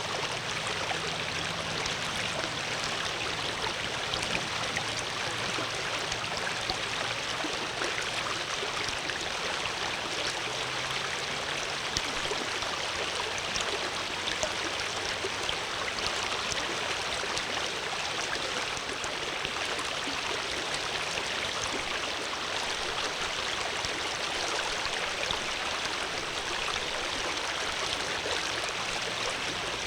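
Water flowing steadily over stones in a stream, a continuous splashing, babbling rush with no pauses.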